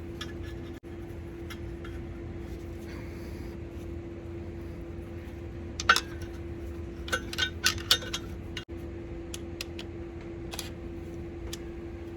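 Metal hand tools and bolts clinking as torque converter bolts are started by hand, with one sharp clink about six seconds in and a quick cluster of clinks around seven to eight seconds. A steady hum runs underneath.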